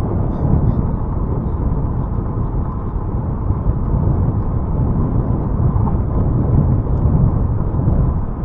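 Wind buffeting the microphone of a camera carried on a moving bicycle, a steady low rumble with tyre and road noise beneath it.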